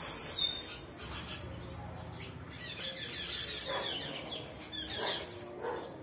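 Birds chirping: a loud run of high chirps in the first second, then fainter scattered calls.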